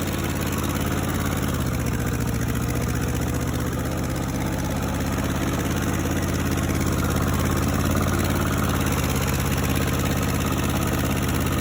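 Ford 8N tractor's four-cylinder gasoline engine running steadily, its note shifting slightly about a second and a half in.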